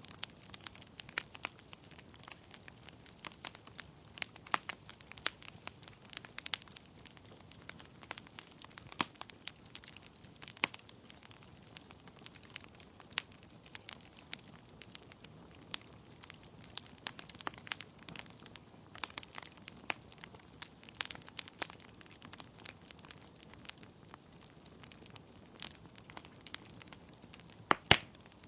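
Wood fire burning in a fireplace, the logs crackling and popping in irregular sharp snaps over a low steady hiss, with one louder pop near the end.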